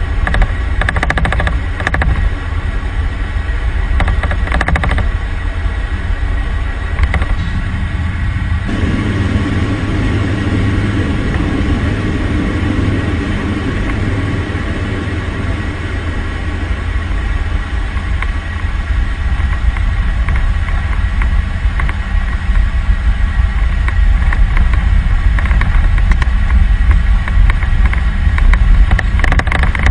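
Steady, loud aircraft engine noise: a deep rumble with a few steady whining tones above it, its character shifting about nine seconds in.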